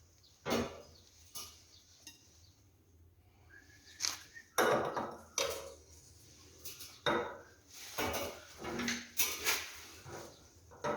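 Irregular light metallic clinks, taps and scrapes of a screwdriver and hands working on a sheet-metal stove flue adapter.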